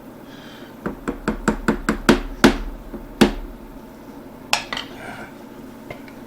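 Metal utensil knocking against a cooking pot: a quickening run of about eight sharp clanks, then two more single clanks spaced apart.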